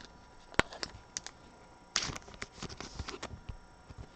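Trading cards being handled and flicked through one by one: a scatter of light clicks and taps, with a brief rustle about two seconds in.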